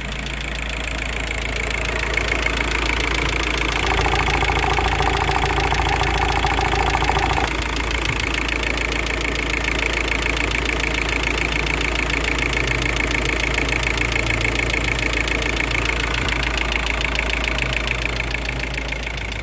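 A 1.9 TDI four-cylinder diesel engine in a VW Passat 3BG, running steadily with a fine rapid clatter. An extra higher tone sounds for a few seconds about four seconds in, then cuts off. The owner says the hydraulic lifters can now be heard, a sign he expects the cylinder head will need work.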